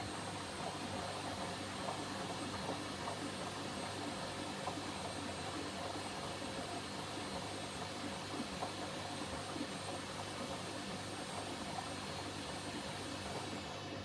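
Hoover H-Wash 300 washing machine running its cycle: a steady rushing noise with a thin high-pitched motor whine, the whine dipping in pitch near the end.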